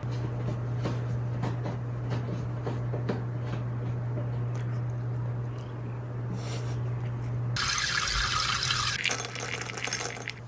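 Water running and filling a container over a steady low hum, with small clicks. About seven and a half seconds in, a louder rush of water starts, and it stops near the end.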